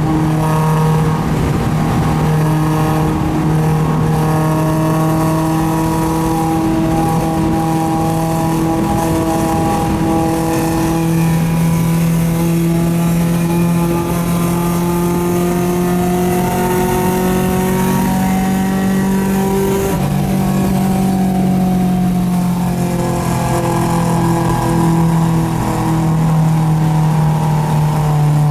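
Car engine running hard at high, steady revs on a track lap, with a tyre-and-wind rush underneath. Its pitch climbs slowly for about twenty seconds, dips briefly, then holds steady again.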